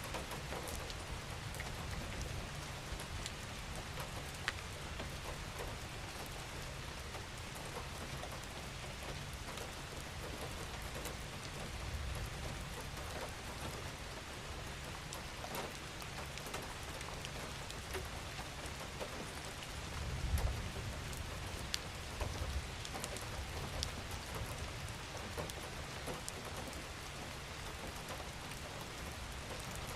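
Steady rain falling, a continuous hiss with scattered individual drops ticking through it. Underneath runs a low rumble that swells briefly about two-thirds of the way through.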